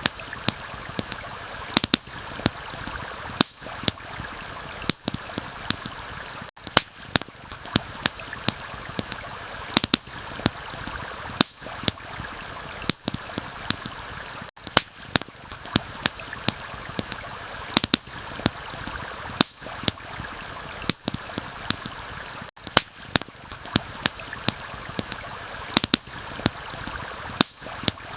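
Stream running steadily, with a campfire crackling over it: sharp, irregular pops and snaps.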